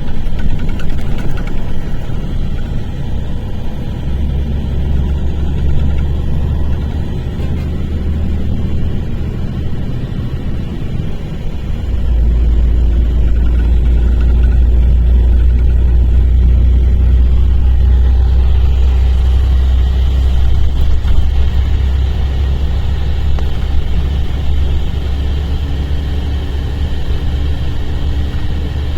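Mercedes-Benz O-500RSD coach's diesel engine running with a steady low drone, which drops in pitch and grows louder about twelve seconds in.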